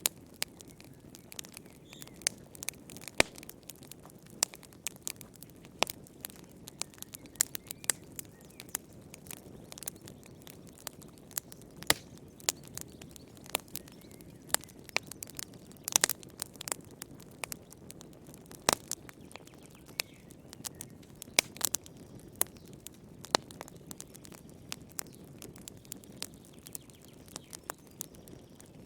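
Wood fire burning in a fireplace, with frequent sharp irregular crackles and pops over a low steady rumble of the flames.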